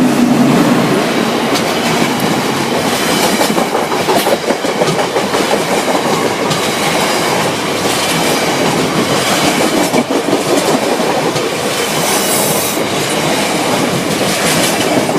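Freight train of oil tank wagons hauled by Class 60 diesel locomotive 60017 rolling steadily over a level crossing, wheels clattering rhythmically over the rail joints. The locomotive's engine hum fades about a second in, leaving the wagons' clatter.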